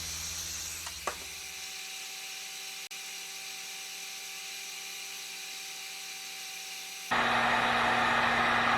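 Faint steady hum, then about seven seconds in a heat gun switches on abruptly and blows steadily.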